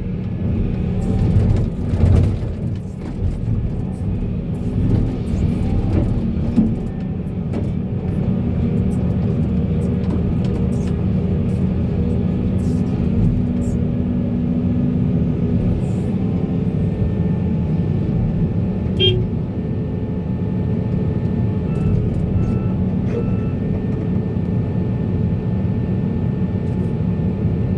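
Heavy diesel machinery engine running steadily, with scattered knocks and clatter in the first few seconds.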